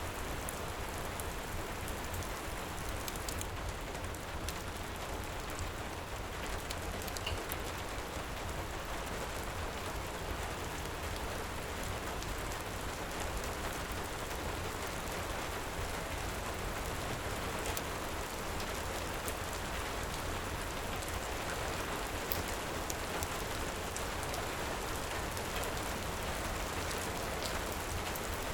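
Heavy rain falling steadily, with a deep low rumble under it and a few faint scattered crackles from a wood fire.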